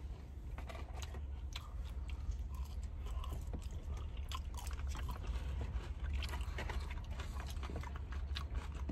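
Close-up chewing and biting of french fries, with scattered small crunches and wet mouth clicks.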